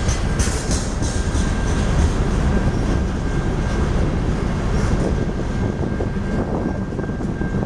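Freight cars of a BNSF manifest train rolling past with a steady heavy rumble, the wheels clicking over rail joints in the first couple of seconds, and a thin steady high whine from the wheels on the rails.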